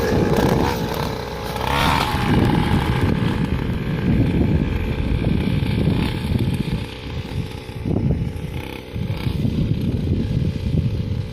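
Motocross bike engine running at fairly steady revs as the bike is ridden, with a rough, uneven low rumble underneath.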